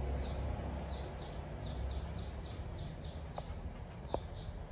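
A small bird chirping over and over, short high notes that slide down, about three a second. A faint tap sounds about four seconds in.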